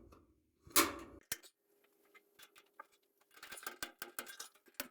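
Small clicks and light scraping of a hand tool on rusty sheet metal, in a quick irregular cluster over the last second and a half, after a brief rushing noise and a sharp click about a second in.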